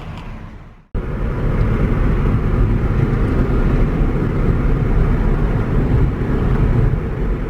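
Steady rumble and road noise of a car driving, starting abruptly about a second in and fading near the end.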